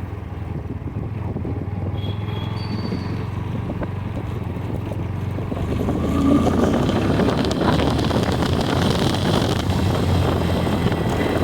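Motorcycle engine running while riding, with wind rushing over the microphone; the noise grows louder about six seconds in.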